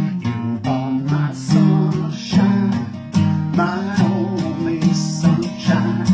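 Acoustic guitar strummed in a steady rhythm, playing chords through an instrumental gap between sung lines.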